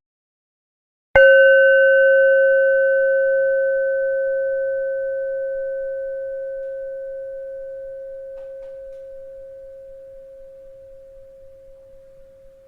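A single bell struck once about a second in, ringing one steady mid tone with fainter higher overtones and fading slowly and evenly over about eleven seconds.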